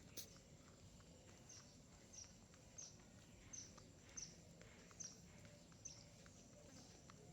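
A small bird chirping over and over: short, high, falling notes about one and a half a second, faint, with a few soft clicks among them.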